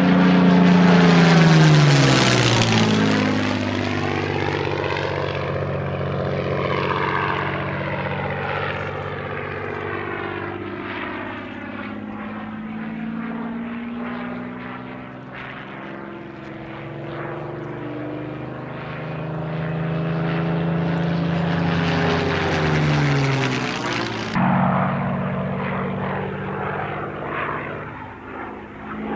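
Supermarine Spitfire Mk VIII's Rolls-Royce Merlin V12 engine running as the fighter makes low passes in a display. The engine note is loudest about two seconds in and drops sharply in pitch as the plane goes by. It builds again and falls in pitch once more near the end.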